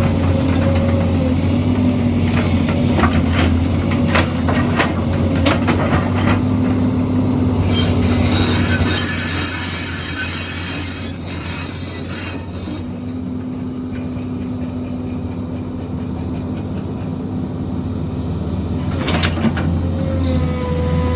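Heavy excavator's diesel engine running steadily under load, with scattered sharp metal knocks and clanks. A high metallic squeal runs for several seconds near the middle.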